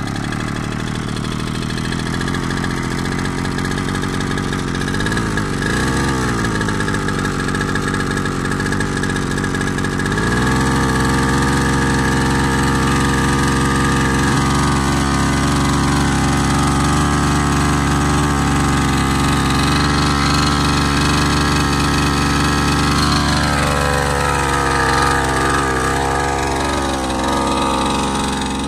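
Brush cutter engine running: a steady drone that wavers briefly, then revs up about ten seconds in and holds at high speed, with the revs sagging and wavering near the end as if taking load while cutting rice straw.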